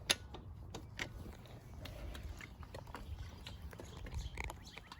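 Scattered light clicks and knocks from handling a small dirt bike's controls, with a low rumble underneath and no engine running; the bike has not started, and its gear is being checked for neutral.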